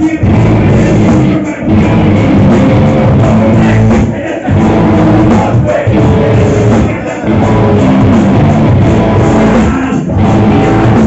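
Loud rock music from a band playing live, with guitar and drums.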